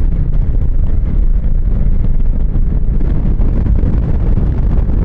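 Wind buffeting the microphone over the steady rumble of a motorcycle on the move, loud and low-pitched without letting up.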